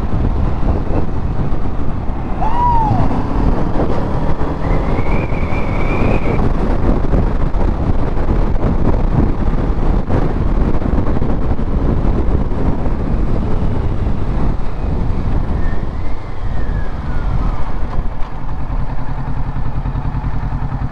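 A 2020 Kawasaki Ninja 650's parallel-twin engine running on the move, with a few rises and falls in pitch early on. Over the last few seconds it settles into a steady, even note.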